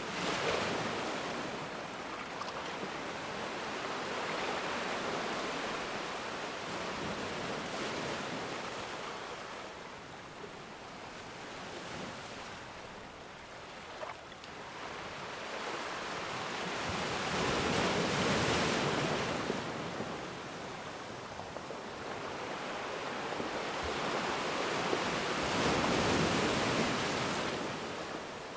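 Ocean waves breaking and washing on a shore, a steady hiss of surf that swells into three louder surges, about a second in, in the middle and near the end, each fading back.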